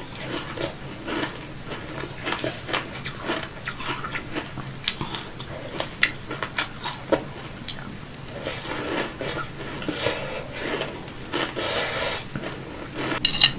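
Close-miked chewing and biting of food, with many short, sharp crunching crackles coming irregularly throughout.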